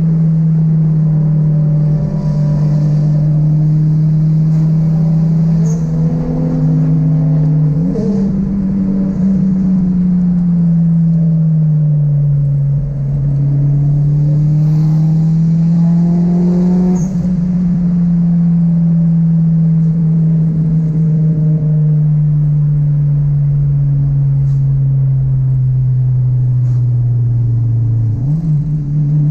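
Turbocharged VTEC engine of a Honda Civic EK3, heard loud from inside the cabin while driving. Its pitch holds steady at first, then rises and falls slowly over several seconds as the revs change. Near the end it drops low and jumps sharply back up.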